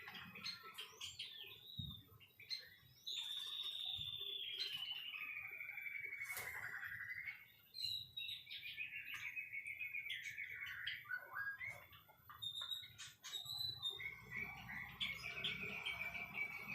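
White-rumped shama singing a run of varied phrases. Several are long trills that slide down in pitch, broken by short, sharp notes.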